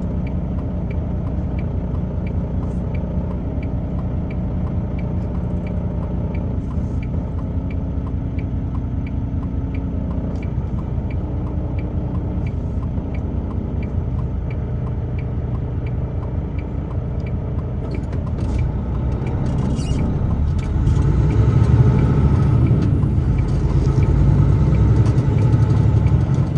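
A truck driving at highway speed, heard from inside the cab: a steady engine and road rumble with a faint regular ticking about one and a half times a second. The noise grows louder about two-thirds of the way through.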